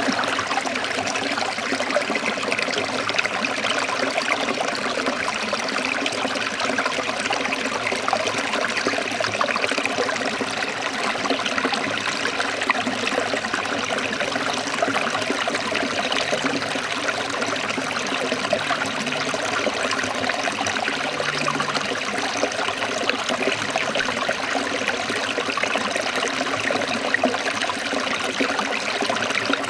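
Waterfall: falling water splashing in a steady rush.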